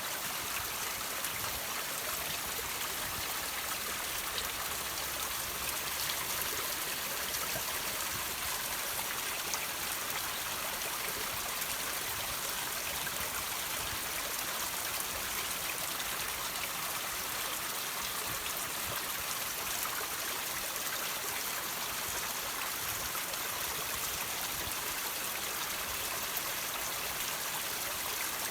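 Water trickling and dripping from rocks in a steady, even rush, with small drops pattering through it.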